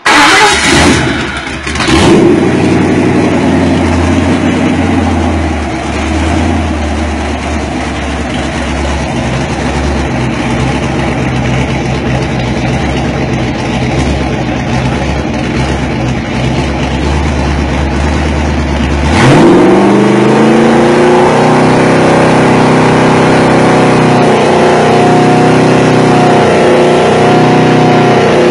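Ford 302 small-block V8 with roller cam and Holley Sniper EFI starting on a test stand, catching within a couple of seconds and settling into a steady low idle. About two-thirds of the way through the revs rise and hold higher, wavering slightly.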